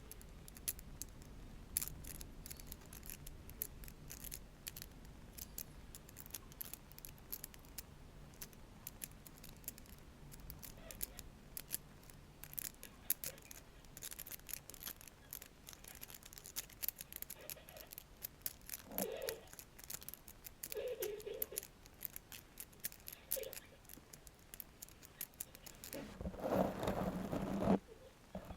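A long metal nail scratching and tapping on a surface: a fast, irregular run of small sharp clicks and scrapes, with a louder, longer rasping stretch near the end.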